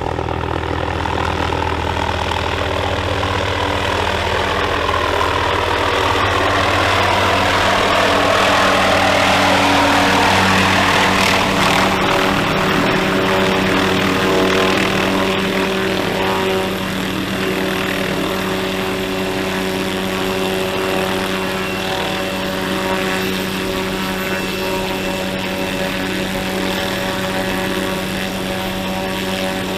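A Little Bird-style light helicopter running, a steady rotor and turbine sound with a whine that falls in pitch over the first ten seconds or so. It grows a little louder to a peak about ten seconds in, then holds steady.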